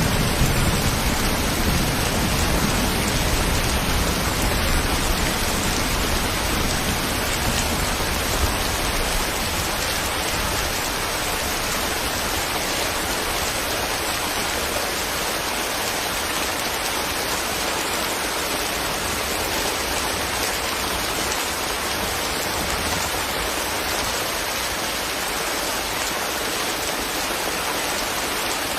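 Steady, heavy-sounding rain hiss. A low thunder rumble fades away over the first nine seconds or so.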